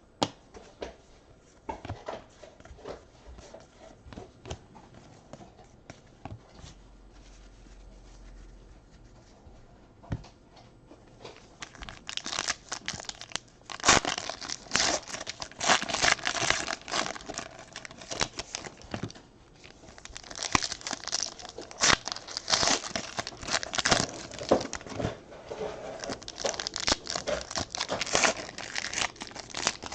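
Plastic wrappers of baseball card packs being torn open and crinkled by hand. The first stretch holds only light handling clicks; about twelve seconds in, loud irregular crinkling and tearing begins and goes on in bursts.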